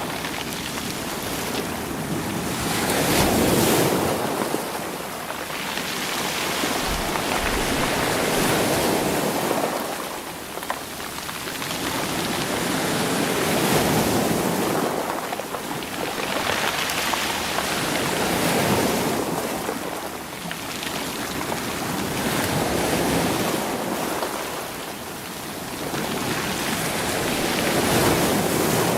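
Sea waves breaking against rocks and rolling the stones, each wave swelling and ebbing in turn, about one every four to five seconds.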